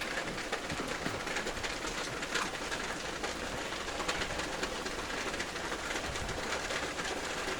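Steady rain falling, with many small drops ticking and dripping.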